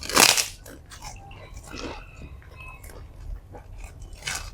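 Someone eating: a loud crunchy bite about a quarter second in, wet chewing and small mouth clicks, then another crunch near the end.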